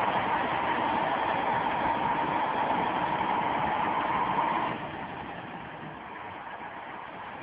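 A vehicle engine running with a steady whine; partway through the whine stops and the sound drops noticeably in level, leaving a quieter rumble.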